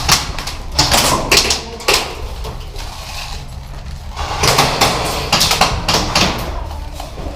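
Airsoft guns firing: two bursts of rapid sharp clicks and snaps, one in the first two seconds and another from about four and a half seconds in.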